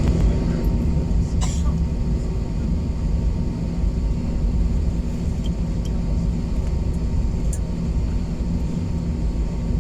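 Airliner engines and cabin noise heard from inside the passenger cabin: a steady low rumble with a hum, as the plane gets under way.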